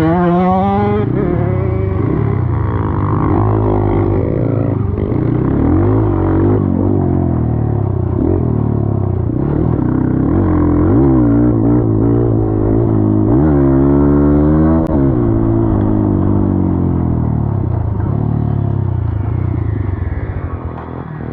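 Dirt bike engine under way, its revs rising and falling again and again as the throttle is worked, with a longer climb in revs about two-thirds of the way through.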